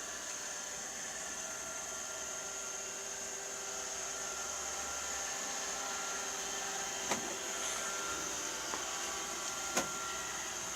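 Robot vacuum cleaner running with a steady whir and high hiss. There are two short sharp knocks, about seven seconds in and again near the end.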